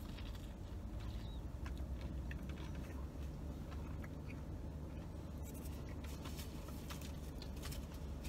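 A mouthful of toasted chicken salad BLT sandwich being chewed, faint small clicks and mouth noises over a steady low hum.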